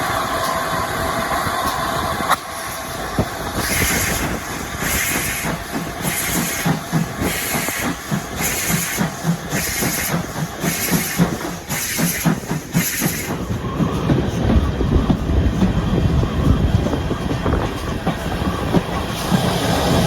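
Steam locomotive working a train: about a dozen sharp exhaust chuffs, getting quicker, start a few seconds in. They then give way to a louder low rumble of the train running on the rails.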